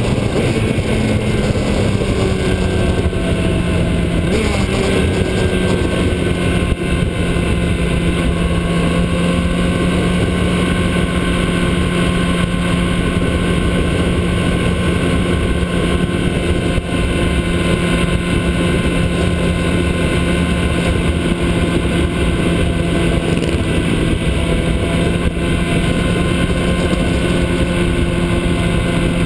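Motorcycle engine running at a steady pitch, held evenly, with a brief shift in pitch about four seconds in.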